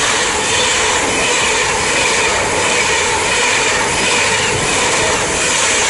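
Class 390 Pendolino electric train passing through the station at speed without stopping: a loud, steady rush of wheels on rail and air.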